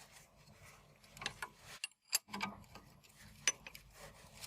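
Light, scattered metallic clicks and taps from tools and the loose anti-roll bar link being worked on by hand, a few separate knocks with a brief dead gap about two seconds in.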